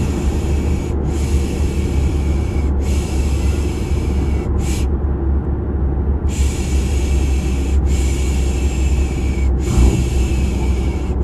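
Steady low drone of a car interior with rhythmic 'shh' shushing laid over it. The shushes are long hushes of about a second and a half each, three in a row, then a pause of a second or so, then three more, as a soothing sound to lull a baby to sleep.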